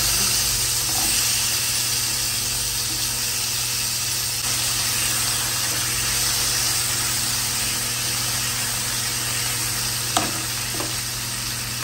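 Potato wedges and cumin seeds sizzling steadily in hot oil in a non-stick kadai, stirred with a spatula partway through. A single sharp tap near the end.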